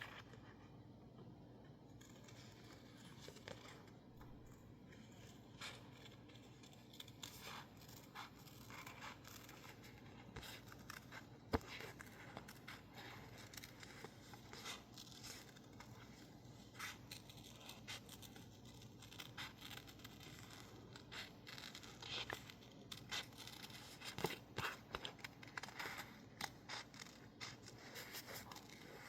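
Scissors snipping through sticker label paper in many short, irregular cuts, with one sharper click about eleven seconds in.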